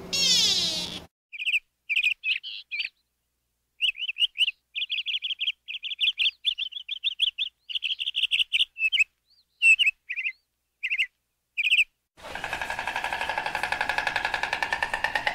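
Bird chirping and twittering in quick high notes, some run together into fast trills, with silent gaps between. About twelve seconds in, a steady, rapidly pulsing buzz takes over.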